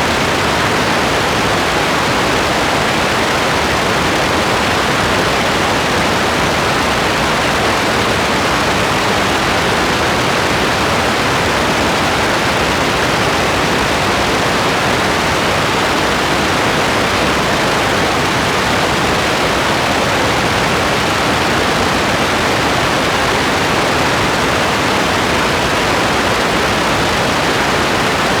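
Heavy, steady rain: a dense, even hiss with no single drops, drips or thunder standing out.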